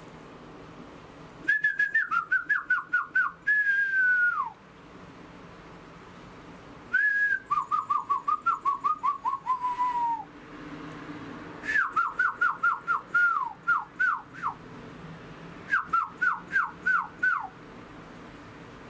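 A bird calling in four bouts of quick, sharply falling whistled notes, each bout lasting two to three seconds, with a few longer drawn-out notes among them.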